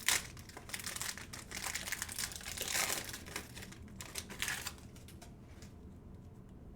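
Wrapper of a Topps Chrome baseball card pack crinkling as it is torn open and pulled off, loudest at the start, dying down after about four and a half seconds.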